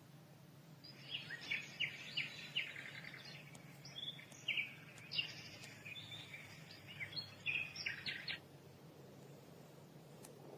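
Recorded birdsong played from a Dreamegg Pocket Sleep 1 sound machine: a string of quick chirps and trills starting about a second in and stopping after about seven seconds, over a faint steady hum.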